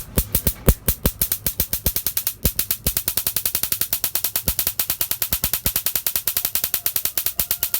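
Small single-cylinder engine of a miniature Raider 150 motorcycle model running as a train of separate sharp pops, uneven with a few louder pops at first, then quicker and steadier at about ten a second from about three seconds in, cutting off suddenly at the end.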